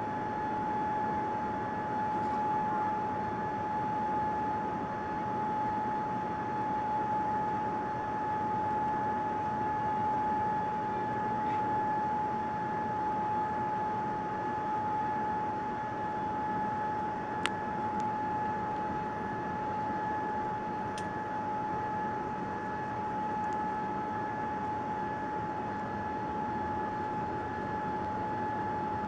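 Steady airliner cabin noise inside a Boeing 787-9 in flight: an even rush of air and engine noise with a constant high-pitched tone running through it. Two short clicks come a little past halfway.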